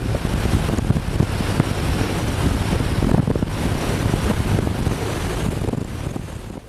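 Heavy wind buffeting a microphone: a loud, rough rush with strong low rumbling gusts, cutting off abruptly near the end.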